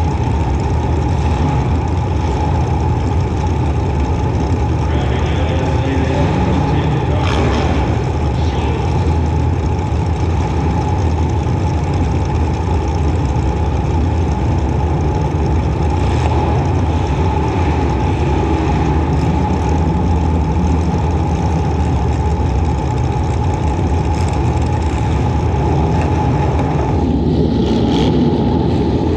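Demolition-derby compact car's engine running hard under steady throttle, heard close up from on board, with a few sharp bangs of impacts, about seven, sixteen and twenty-eight seconds in.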